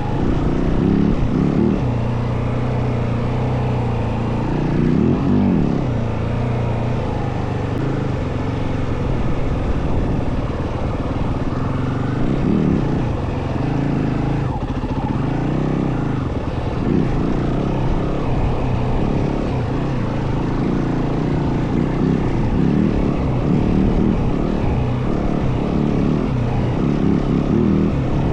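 Yamaha WR450F single-cylinder four-stroke dirt bike engine running under way, its note rising and falling repeatedly with the throttle.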